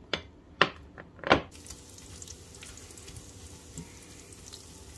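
Small dried fish (dilis) frying in oil in a pan: a soft sizzle with scattered small crackles, starting about a second and a half in. Before that come three short, sharp sounds.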